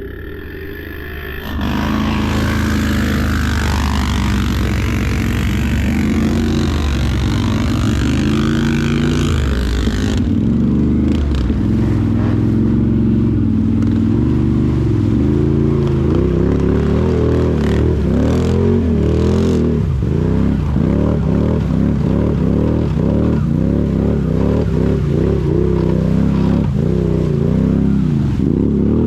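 Off-road vehicle engine running loud, with a hiss over it for the first several seconds; from about halfway, the revs rise and fall again and again in quick blips.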